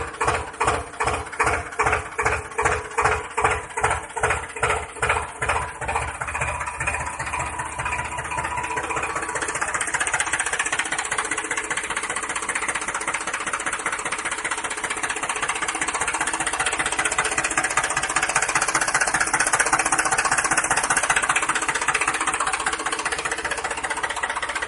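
An engine chugging: slow, evenly spaced knocking beats, about two to three a second, that quicken and merge into a steady run by about ten seconds in.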